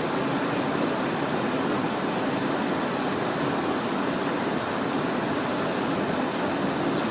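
Steady cabin noise inside the cockpit of a Cessna Citation Encore business jet in flight: rushing airflow over the airframe mixed with the drone of its twin turbofan engines, even and unbroken.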